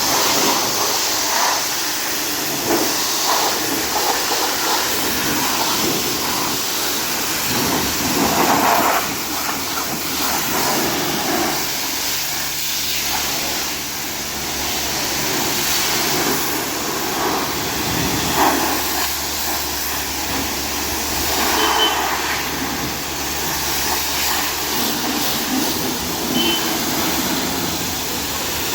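High-pressure water spray hissing in uneven surges, with the low steady hum of a pump motor running underneath through the middle stretch.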